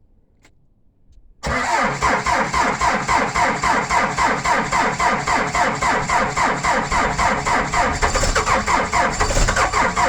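Skid steer engine cranking on its starter in a cold start at about 20 degrees, not yet catching. It starts suddenly about a second and a half in and turns over with an even, fast pulsing rhythm.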